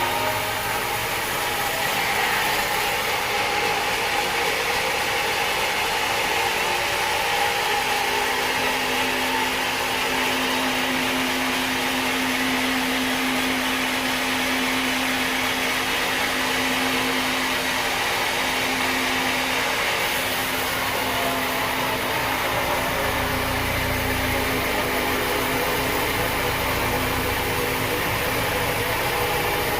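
Sawmill machinery running with a steady mechanical noise; a steady hum comes in about a quarter of the way through and fades out past two-thirds, and a low rumble joins near the end.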